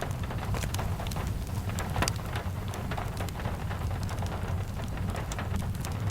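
Steady rain mixed with a crackling fireplace: many small sharp crackles and pops over an even rain hiss and a low rumble, with one louder pop about two seconds in.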